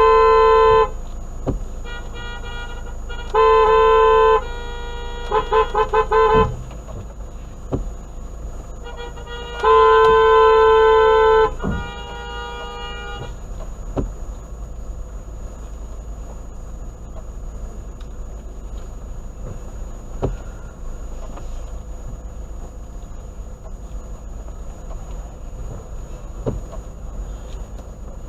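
Car horns honking in traffic: several blasts, two of them long, and a run of about five quick short toots, over a steady low hum of traffic. After about 13 seconds the horns stop and only the traffic hum remains.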